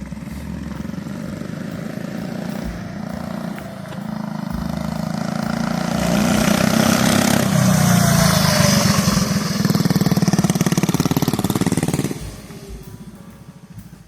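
Mini bike engine, fitted with a new PZ19 round-slide carburetor, running under throttle. It grows louder from about four seconds in, is loudest through the middle stretch, and drops away sharply near the end.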